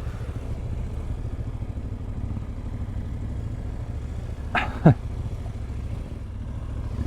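Yamaha Ténéré 700 parallel-twin motorcycle engine running steadily at low revs. About four and a half seconds in, a short cry drops sharply in pitch.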